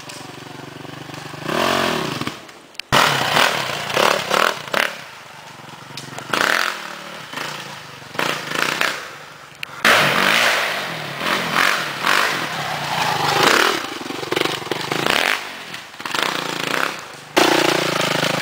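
Suzuki RM-Z450 single-cylinder four-stroke dirt bike engine revving up and down in bursts under riding, with knocks and clatter from the rough ground. The sound jumps abruptly a few times, as at edit cuts.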